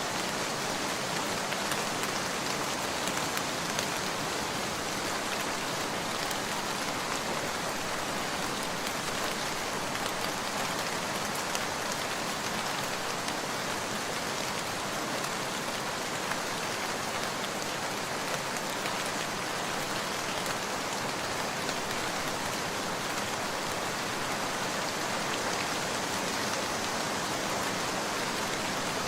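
Steady rain falling on surfaces, a continuous even hiss with many fine drop patters and no thunder.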